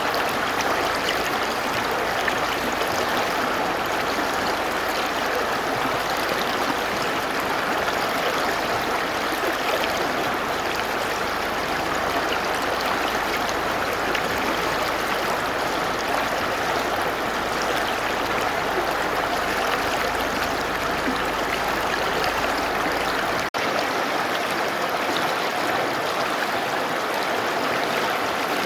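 Mountain river rushing steadily over rocks, an even, dense water noise. There is a split-second dropout a few seconds before the end.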